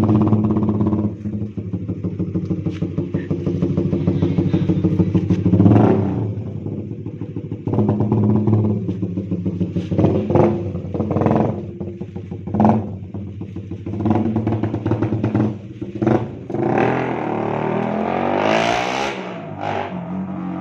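Suzuki Raider 150 Fi motorcycle's single-cylinder four-stroke engine running loud through an open-pipe Creed GP Warrior exhaust, blipped sharply several times, with one long rev climbing in pitch near the end. The owner blames a stutter at low revs on the stock ECU and injector, and says it clears when revved hard.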